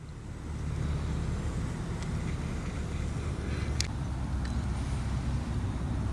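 Steady low outdoor rumble with a fainter hiss above it, and a couple of faint ticks about four seconds in.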